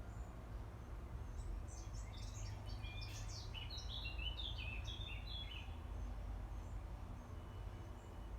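A small songbird sings one long phrase of quick, short high notes that start about a second in and stop after about four seconds, over a steady low rumble.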